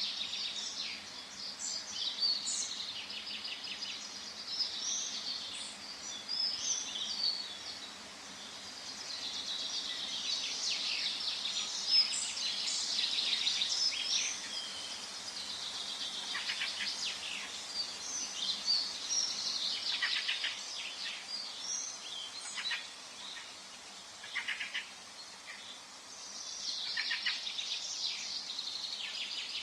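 Forest ambience: several songbirds singing and chirping at once, with overlapping trills and quick high calls over a faint steady background hiss.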